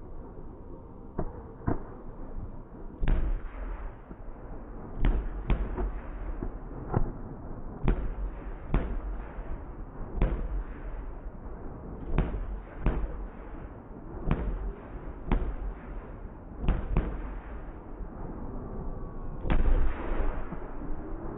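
Fireworks exploding: a string of sharp bangs with deep booms, coming at uneven gaps of about one a second, then a heavier, longer blast near the end.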